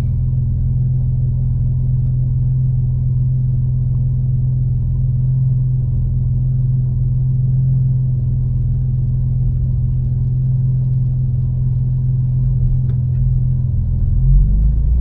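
Tuned BMW M4's twin-turbo inline-six with catless downpipes and an aftermarket exhaust, droning steadily at a light cruise. Near the end the engine note starts to rise as the car accelerates.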